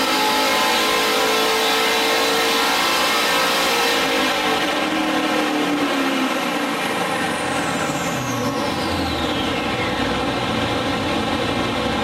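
Holden VZ Commodore's cammed LS1 5.7 litre V8 running hard on a chassis dyno, then the revs fall away over the second half as the run winds down, with a high whine gliding down in pitch.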